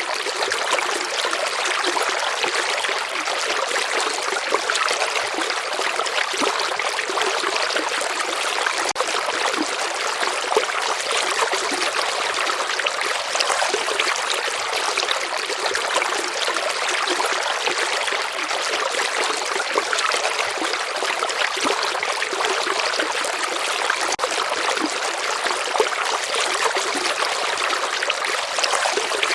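A shallow stream flowing steadily, with a constant bright splashing and trickling over rocks.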